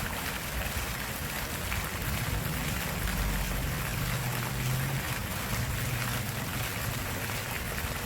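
Water flowing in a stream or brook: a steady, even rushing. A faint low hum comes in about two seconds in and fades by about six seconds.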